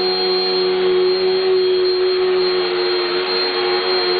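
Corded electric vacuum cleaner running steadily, a constant motor whine over airflow noise.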